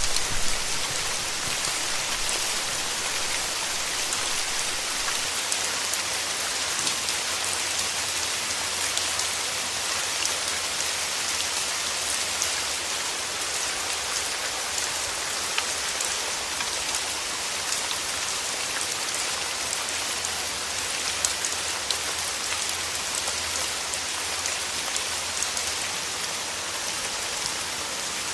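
Steady rainfall: an even hiss of rain with scattered individual drop ticks, holding level throughout.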